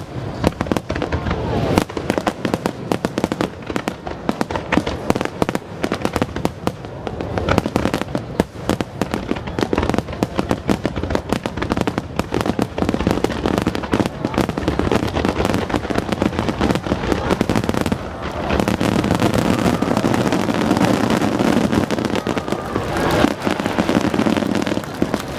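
Aerial fireworks going off in a dense, rapid barrage of bangs and crackles, thickening into an almost continuous wash of noise about two-thirds of the way through.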